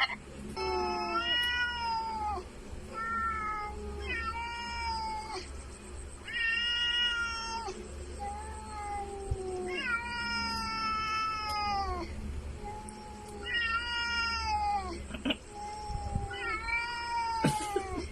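An animal giving about ten long, whining, meow-like calls, one after another, each bending and falling in pitch.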